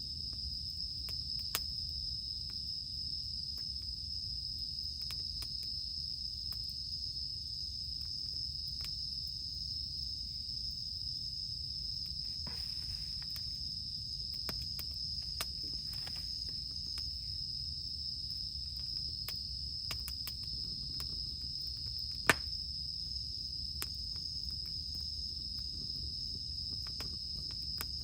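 Wood crackling in a campfire, with scattered sharp pops and one loud snap about three quarters of the way through, over a steady high-pitched chorus of insects.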